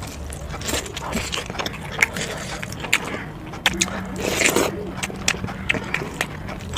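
Close-miked eating of chicken biryani: biting into a chicken leg piece and chewing, with many short wet clicks and a louder, longer burst about four seconds in.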